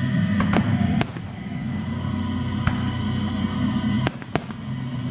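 Fireworks bursting in several sharp bangs over music playing.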